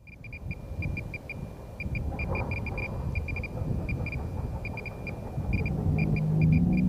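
Radiation detector clicking at a fixed high pitch in irregular, random clusters over a low rumble, as a Geiger counter does when it picks up radiation. Low, droning music comes in about six seconds in.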